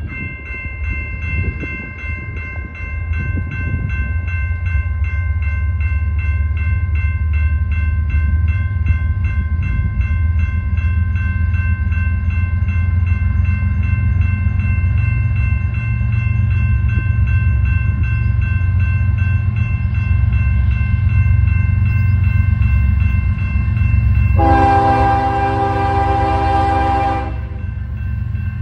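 Grade-crossing bell ringing about twice a second over the low rumble of an approaching diesel freight train. About 24 seconds in, the lead locomotive, a GE ES44DC, sounds one loud horn blast of about three seconds.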